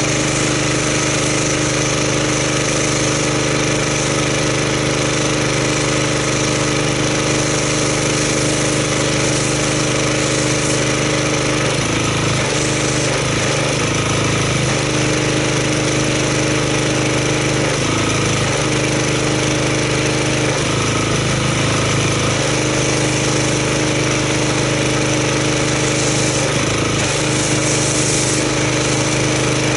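Gas-engine pressure washer running steadily, with the hiss of spray from a foam cannon over the engine note. The engine note briefly shifts several times in the second half.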